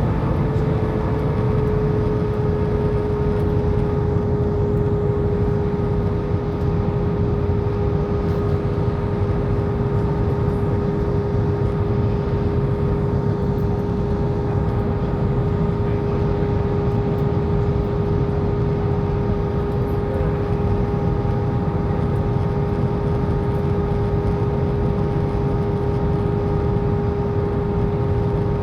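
Steady cabin noise of an airliner descending toward landing: an even rumble of engine and air noise with a constant hum running through it.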